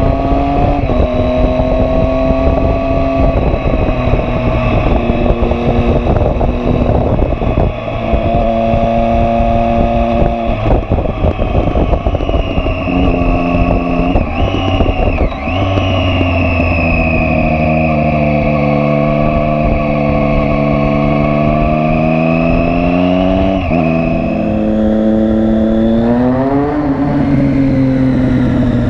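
Triumph Street Triple R 675 inline-three engine running loud through a Coffman aftermarket exhaust with its dB killer removed. The engine note holds steady and then shifts up and down in pitch many times.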